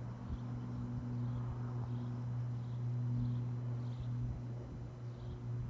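A steady low hum with a fainter higher tone over it, and faint short high chirps recurring every second or so.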